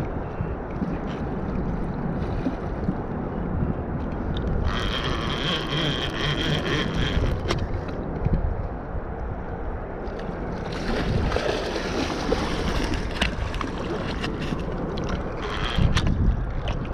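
Wind rumbling on the microphone over moving water, with bursts of splashing, twice for a few seconds, as a big hooked blue catfish is fought in the water, and a few sharp knocks.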